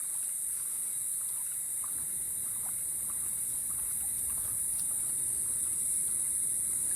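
Steady, high-pitched chorus of night insects such as crickets, a dense unbroken trill, with faint scattered ticks.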